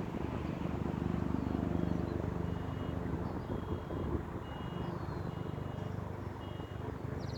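Steady low engine drone, with short high-pitched tones repeating about once a second from partway in.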